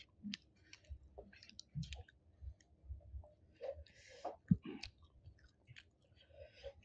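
Close-miked wet chewing and mouth clicks of a person eating sticky rice and chicken curry by hand, with irregular lip smacks. A low thump comes about four and a half seconds in, and there are a couple of short breathy hisses.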